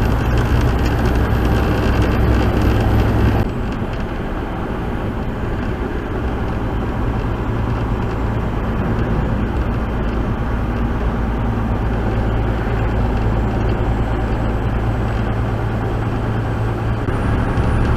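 Steady engine drone and road noise inside a moving truck's cab. A few seconds in the deep engine drone drops away and the sound gets quieter, and near the end the drone builds again.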